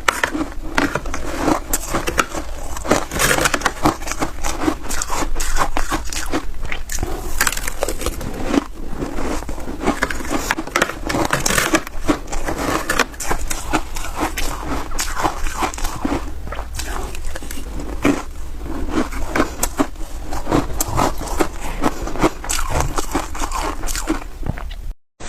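Close-up crunching and chewing of frozen snow ice: a dense, continuous run of crisp crackling bites that cuts off abruptly near the end.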